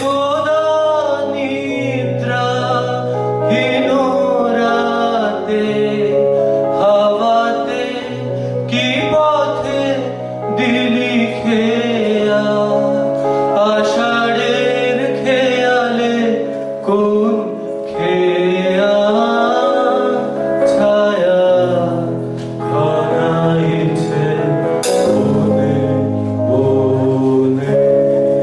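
A raga-based Bengali song drawing on Malhar: singing in long notes that bend and glide, over a steady instrumental accompaniment with held drone-like notes.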